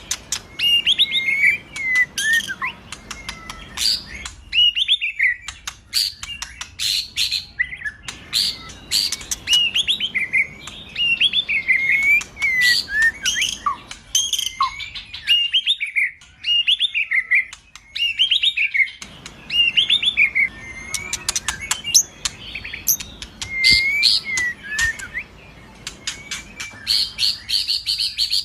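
White-rumped shama (murai batu) singing a continuous string of varied whistled phrases mixed with sharp clicking notes.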